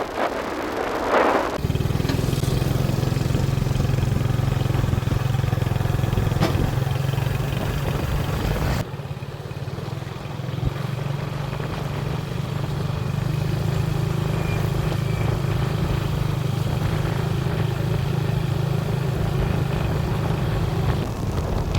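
Motorbike engine running steadily while riding along a road, with road and wind noise. The sound drops suddenly about nine seconds in and then carries on the same.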